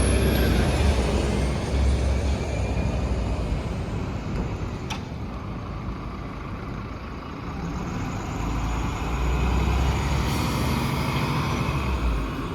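City transit vehicle running past, with a heavy low rumble and a high electric whine that peaks right at the start and then falls away. A single sharp click comes about five seconds in, and the running sound swells again near the end.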